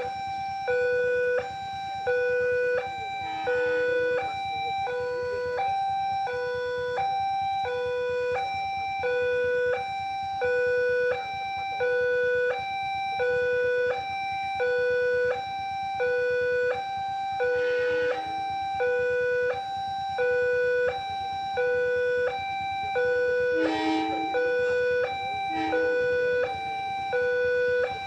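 Railway level crossing warning alarm sounding continuously: an electronic two-tone signal, a low and a high tone alternating about every three-quarters of a second. A few brief other noises come over it, around the middle and again later on.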